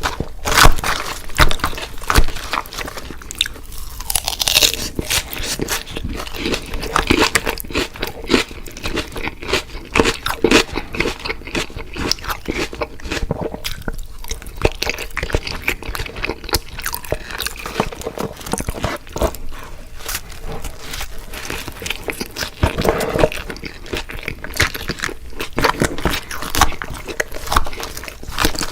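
Close-miked eating: loud crunching bites and chewing of crispy fried food, a dense run of irregular crunches throughout.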